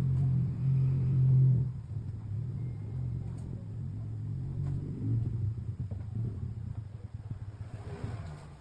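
A low, steady engine-like rumble, loudest for the first second and a half, then fading slowly.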